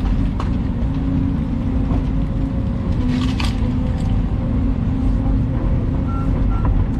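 Volvo EC220 excavator's diesel engine running steadily under hydraulic work, with a short crackle about three seconds in. Near the end a reversing alarm starts beeping.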